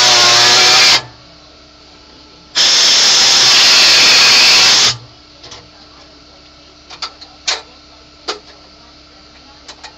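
Air-powered die grinder cutting into the dash panel, a loud whining grind in two bursts: one that stops about a second in, and another of about two seconds shortly after. A few light clicks and knocks follow.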